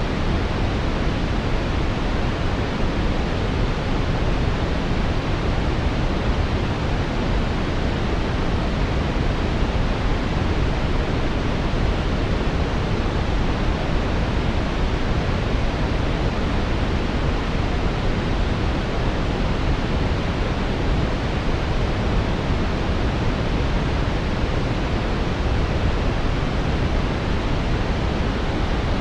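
Steady synthetic brown noise: an even, deep rushing hiss, heaviest in the low end and rolled off in the highs, without change or interruption.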